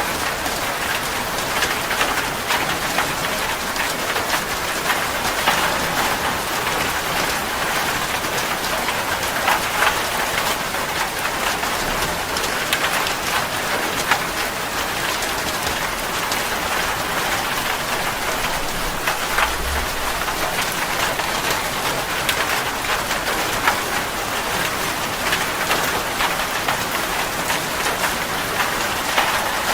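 Steady heavy rain falling on a surface, a dense even hiss scattered with the ticks of individual drops.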